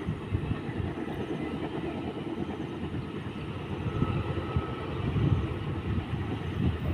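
A diesel-hauled crude-oil tank train running, heard as a steady low rumble of locomotive engine and wheels, with a faint whine about four seconds in.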